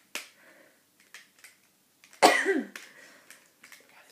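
A single short burst of a person's voice, cough-like, a little over two seconds in, its pitch falling, amid scattered faint clicks.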